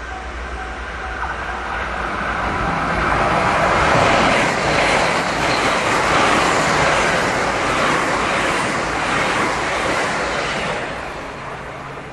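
JR West 681/683-series limited express electric train passing at speed. The running noise builds over about four seconds, holds with a repeated clatter of wheels, and fades away near the end.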